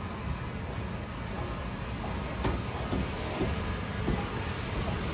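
Railway train running, a steady rumble with a few sharp knocks and clicks around the middle.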